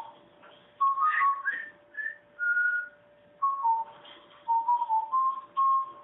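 A run of clear whistled notes, each held briefly at one pitch, some stepping up or down, with short gaps between them.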